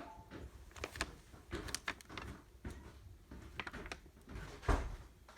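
Irregular clicks and knocks, with a louder thump about three-quarters of the way through.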